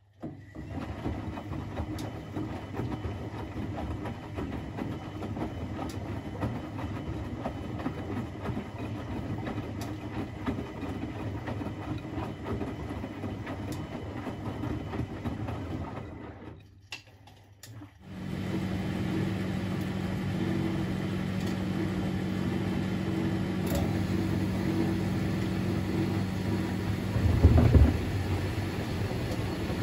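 Privileg 3001 S washing machine running: the drum and its gear motor start up abruptly with a steady rumble, stop briefly about 16 seconds in, then start again with a steadier hum. A loud low knock comes near the end.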